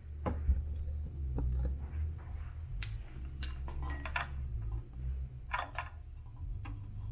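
Scattered light clicks and metallic clinks of hands and parts being handled while fitting the drive belt onto an elliptical's crank pulley, over a steady low hum.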